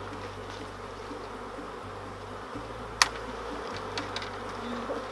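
Honey bee swarm buzzing steadily around the catcher. A single sharp click about three seconds in, with a few fainter ticks about a second later.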